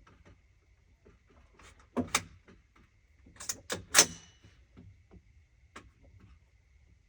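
A series of sharp clicks and knocks: two close together about two seconds in, then a quick run of four, the last the loudest and ringing briefly, with smaller ticks between. A faint steady high tone lies underneath.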